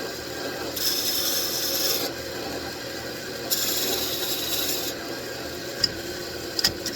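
Wood lathe running steadily while a tool is pressed twice against the spinning mahogany workpiece, each pass a hissing scrape lasting about a second. A few light clicks follow near the end.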